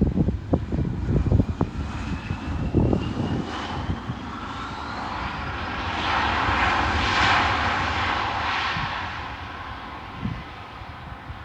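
An airplane passing the field. Its engine noise swells to a peak about seven seconds in and then fades, with a whine rising in pitch over the first few seconds. Wind buffets the microphone at the start.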